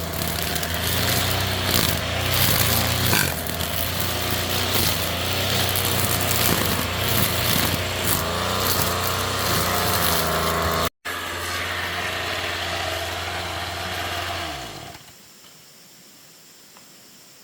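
A small engine running steadily, then winding down and stopping near the end.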